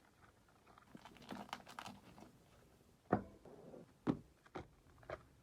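Beeswax food wrap crinkling and rustling as it is handled and folded, with a few sharp knocks about three and four seconds in, the first the loudest.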